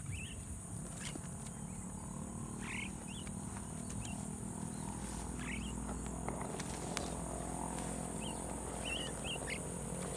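Evening rice-field ambience: a steady high insect drone over a low hum, with short bird chirps every second or two.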